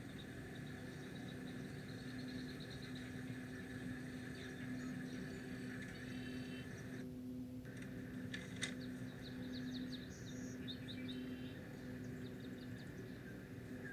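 Several wetland birds calling and chirping in short repeated trills over a steady low hum, with one sharp click past the middle.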